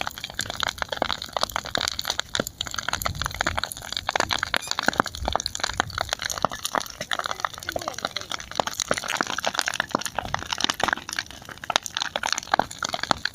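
Wood fire burning, crackling with many irregular sharp snaps and pops over a steady hiss.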